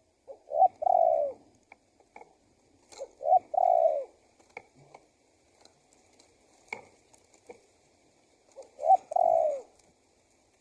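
Male spotted dove cooing: three calls, each a short note followed by a longer note that rises and falls, spaced a few seconds apart.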